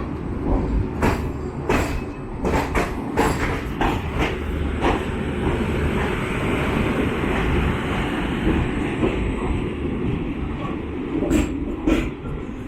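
Passenger train rolling at low speed with a steady rumble. Irregular clacks of its wheels over rail joints and points come thick in the first few seconds, then twice more near the end.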